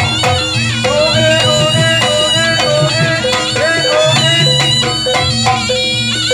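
Traditional Javanese barongan accompaniment: a reedy shawm plays a bending, ornamented melody over hand drums and steady held gong tones.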